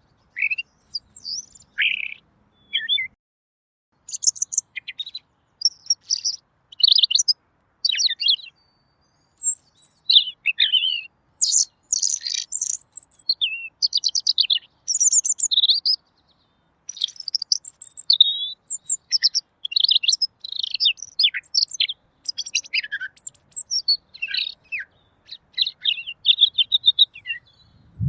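Pekin robin singing: a long run of quick, varied, clear chirping phrases, high-pitched, broken by short pauses.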